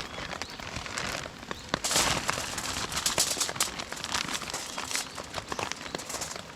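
Rain pattering, with many scattered sharp crackles and taps over a steady hiss.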